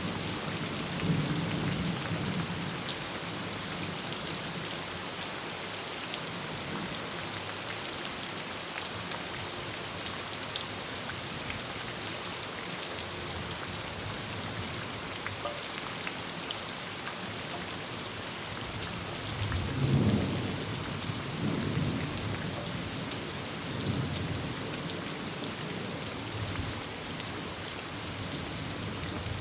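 Heavy rain drumming steadily on a tin roof, with rolls of thunder rumbling low about a second in and again, loudest, about twenty seconds in, followed by a few fainter rumbles.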